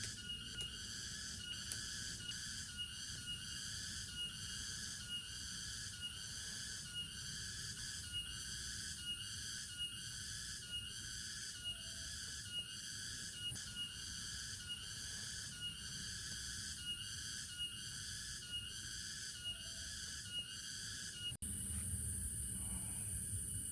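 Rhythmic chirping calls from a night animal, about two a second, repeating steadily over a low rushing background. Near the end they cut off abruptly and a steady hissing rush takes over.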